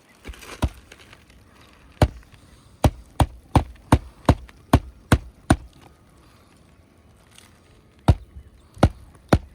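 Hammer driving nails into a roofing shingle: sharp blows, a quick run of about three a second, a pause, then more blows near the end.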